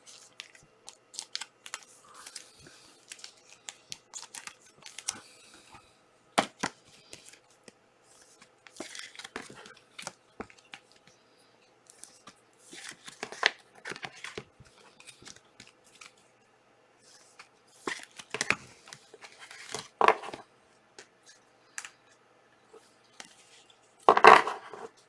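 Plastic wrapper and packs of trading cards being torn open and crinkled, with scattered rustles and clicks of cardboard and foil being handled; the loudest tear comes near the end.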